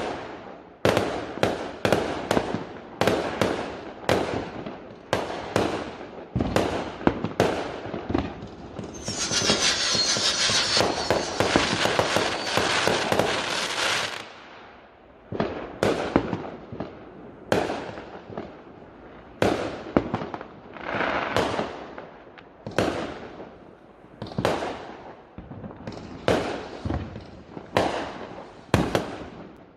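Fireworks going off: a long run of sharp bangs one after another, with a dense hissing crackle lasting about five seconds, starting about nine seconds in.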